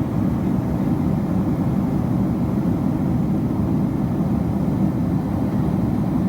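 Steady roar of a Boeing 767-300ER in flight as heard inside the passenger cabin: jet engine and airflow noise, deep and even, with no change in pitch or level.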